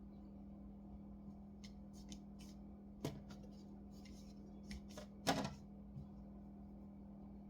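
Scattered small clicks, taps and knocks of hands handling a laptop and small tools on a work surface, the loudest knock a little past halfway, over a steady low hum.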